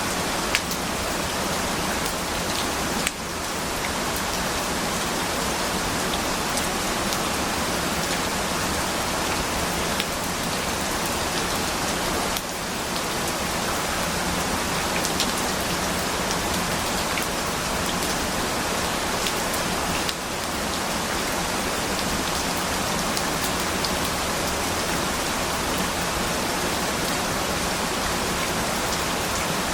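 Steady rain: a dense, even hiss with scattered drop ticks, dipping briefly in level three times.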